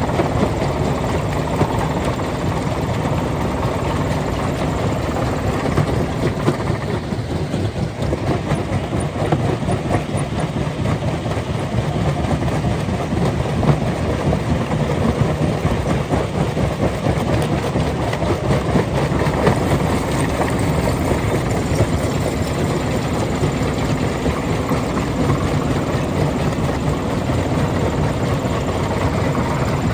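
Rock crusher running: a loud, steady heavy machine noise with a continuous clatter of stone.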